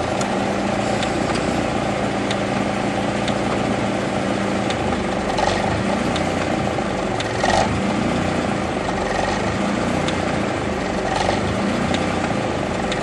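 Honda CRX engine idling steadily, with a few short clicks about five, seven and eleven seconds in.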